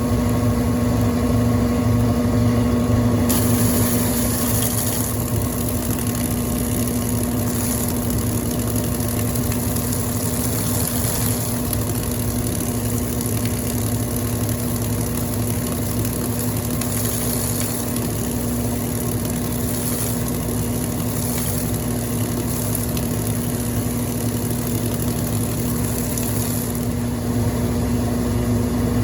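1996 Brastemp Clean 5 kg (BWR22A) washing machine running with a steady motor hum. A hiss comes in about three seconds in and stops near the end.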